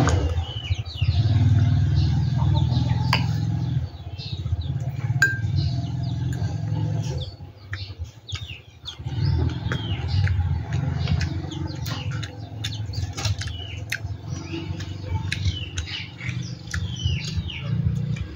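Small birds chirping in short, repeated calls over a steady low motor hum. The hum is loudest for the first four seconds and briefly dies away around eight seconds in.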